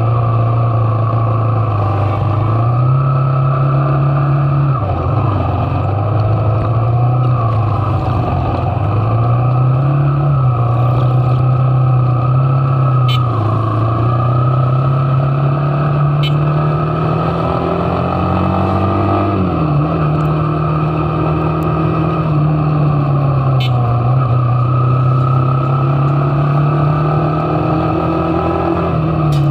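Motorcycle engine running under way, its note rising and falling several times as the throttle opens and closes.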